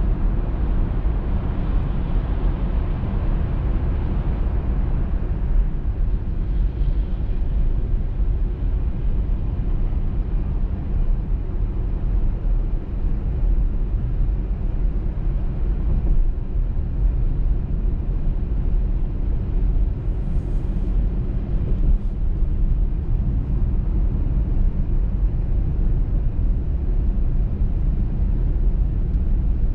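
Steady low rumble of a car driving at road speed: tyre and road noise with the engine underneath, on a snowy motorway.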